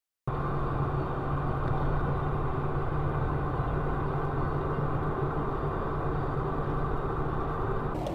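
Steady engine and road noise of a moving car heard from inside the cabin, with a steady low hum; it cuts in suddenly just after a moment of silence.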